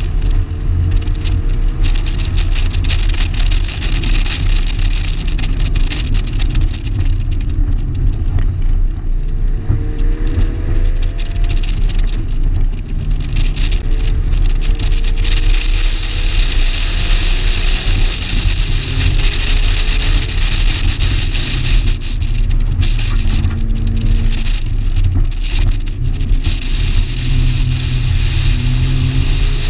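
1987 Shelby GLHS's turbocharged 2.2-litre four-cylinder engine running at speed on a race track. Its pitch climbs and drops back several times as it pulls through the gears, over a heavy, steady low rumble.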